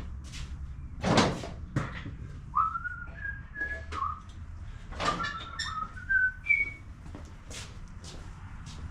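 A man whistling a short tune of held notes that step up and down in pitch. Around it are a few knocks and clunks from things being handled, the loudest about a second in.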